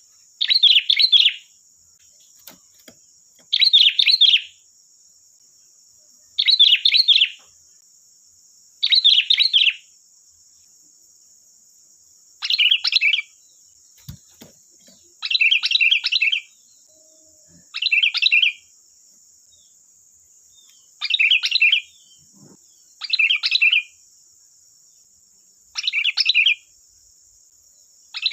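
Sooty-headed bulbul (kutilang) singing: short, loud chirping phrases repeated at a steady pace, about one every two and a half seconds, over a faint steady high hiss.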